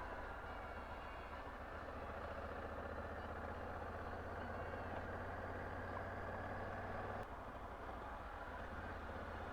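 Honda Africa Twin parallel-twin motorcycle engine running steadily while riding, under a haze of wind and road noise; the sound drops suddenly about seven seconds in.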